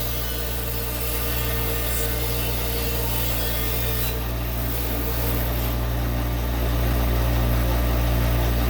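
Bandsaw running steadily, its motor humming under the hiss of the blade cutting lengthwise through a log, growing a little louder near the end.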